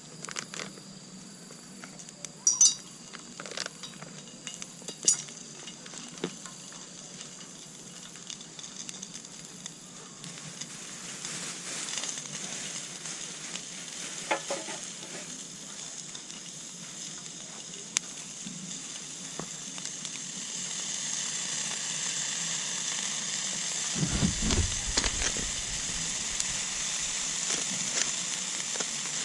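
Food sizzling in a hot pan, with scattered sharp clinks and taps of utensils in the first few seconds. The sizzle swells from about a third of the way in and is loudest near the end, with a low thump and rustle a few seconds before the end.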